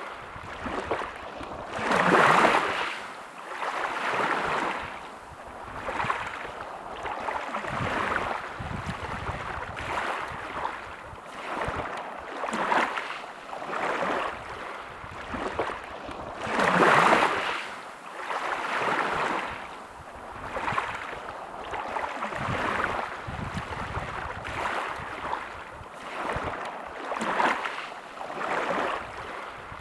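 Sea waves washing onto a beach, a rushing hiss that swells and recedes every second or two, with two bigger waves breaking about two seconds in and again near the middle.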